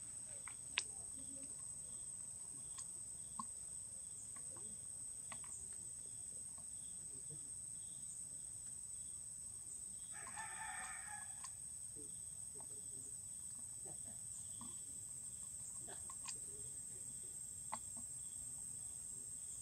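A single bird call, about a second long, about halfway through. Under it runs a steady high-pitched hum, with a few sharp small clicks scattered through.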